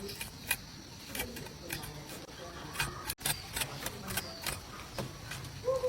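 Chopsticks and bowls clicking and tapping during a meal: scattered light clicks, with the sound dropping out for an instant about three seconds in.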